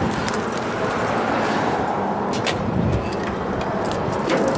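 Toyota pickup truck's engine running steadily, with a few light knocks.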